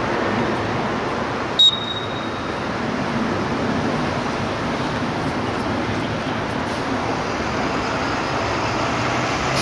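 A short single referee's whistle blast about one and a half seconds in, over a steady rushing background of wind and distant traffic noise.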